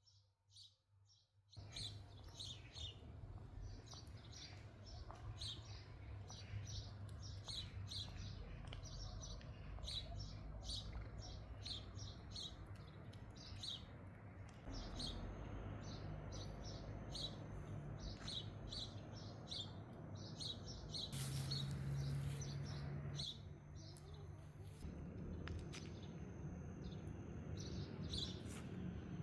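Small birds chirping over and over, many short high notes, over a steady low rumble of outdoor background noise. A thin, steady high-pitched tone joins in during the second half.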